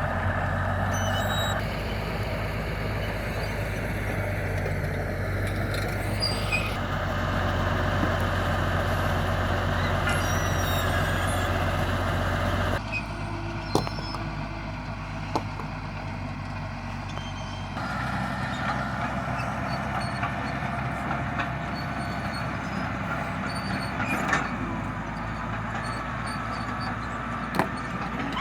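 Heavy diesel engines of road-construction machinery and trucks running steadily. The sound changes abruptly several times, and a few sharp knocks come in the second half.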